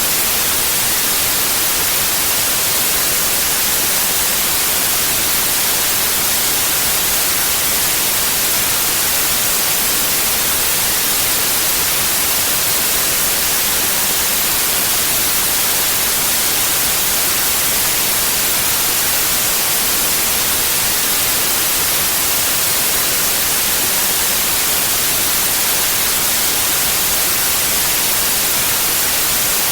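Synthetic white noise: a steady, even hiss with no change or pattern, strongest in the treble.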